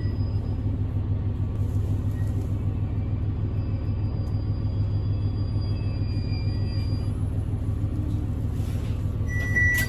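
Diesel railcar running, heard from inside the carriage: a steady low rumble of engine and wheels on the rails. Near the end a high, steady electronic tone begins.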